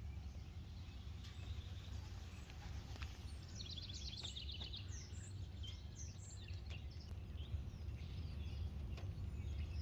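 Steady low rumble of background noise with small birds chirping high above it: a rapid trill about four seconds in, then scattered short chirps.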